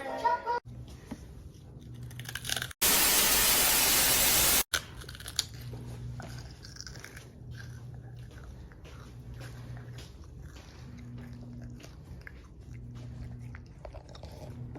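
Someone crunching and chewing food: many small crunches over a low steady hum. A loud burst of hiss lasts about two seconds, starting about three seconds in.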